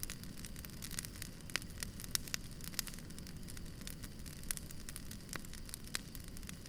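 Campfire crackling, with irregular sharp pops and snaps over a low, steady rush of the flames.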